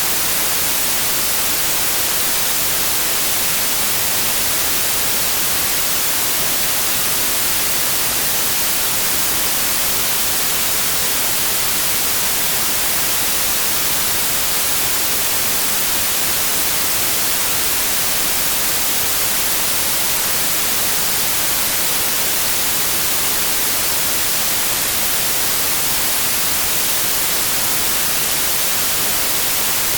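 Synthetic white noise: a steady, even hiss with no changes or events.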